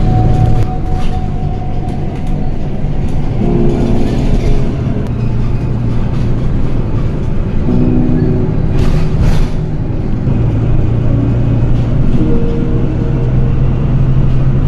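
A motor vehicle's engine running with a steady, loud low rumble, its pitch stepping up and down as it changes speed, with a couple of brief rattles about nine seconds in.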